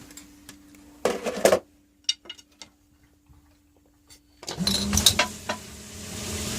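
A knock about a second in, then about four and a half seconds in a basement sump pump switches on suddenly and runs steadily, a motor hum with a rush of water, as its new float lets it start.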